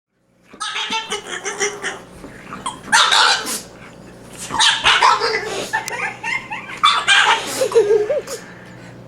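A dog making a run of short, loud, noisy vocal bursts, with a brief wavering whine about eight seconds in.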